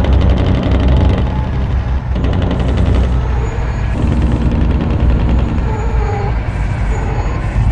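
A heavy engine running with a deep, steady rumble, with a few short hissing puffs over it.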